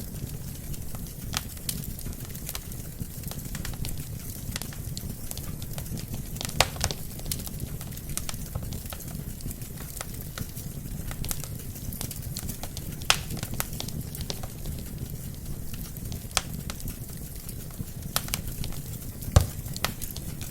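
Wood fire burning in a fireplace: a steady low rumble of flame with irregular sharp crackles and pops of the burning logs, a few louder pops standing out.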